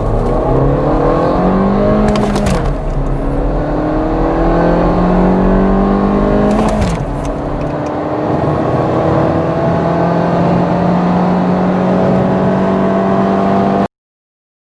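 Turbocharged four-cylinder car engine accelerating hard at full throttle, its pitch climbing through the gears with two upshifts, about two and six and a half seconds in, before a long slower climb that cuts off suddenly near the end.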